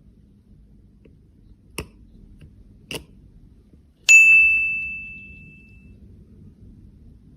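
Two light clicks, then a single bright bell-like ding that rings out and fades over about two seconds.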